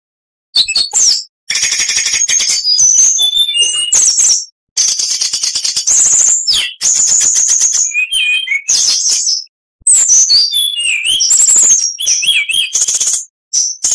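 Oriental magpie-robin (kacer) singing a loud, fast, varied song of whistles, rapid trills and chattering notes, in phrases broken by short silent gaps.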